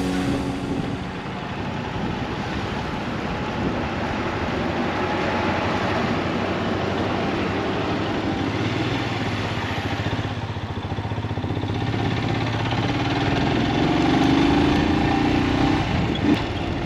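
Motorcycle engine running on the move, a steady rumble whose pitch rises near the end as the engine speeds up.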